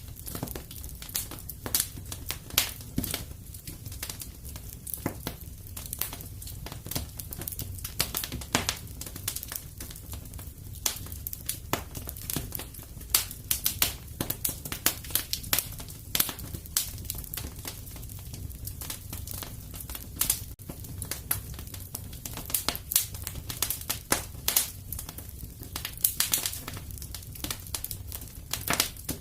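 Wood fire crackling and popping in a fireplace: frequent irregular sharp snaps over a steady low rumble of the flames.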